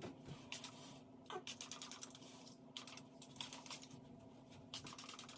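Faint scattered rustles and quick light ticks of hands working product through hair, over a faint steady low hum.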